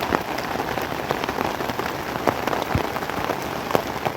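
Steady rain falling, with a scatter of louder single drops hitting close by, a couple of them sharply loud in the second half.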